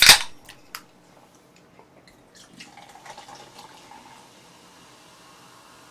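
A short loud burst of noise, then a few seconds of liquid pouring and fizzing with small scattered ticks, as a carbonated lemon-lime soda (cider) is poured into a cup.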